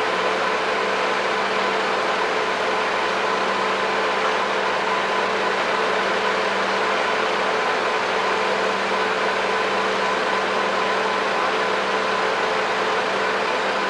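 A large engine on heavy machinery, revved up and held at a steady speed, then dropping back down at the very end.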